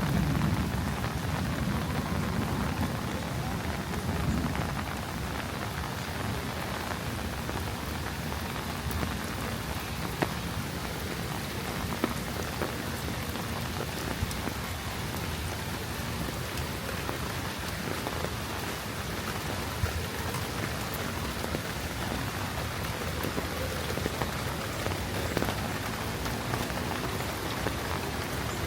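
Steady rain falling on hard surfaces, with scattered sharp drop hits. A low thunder rumble fades out in the first few seconds.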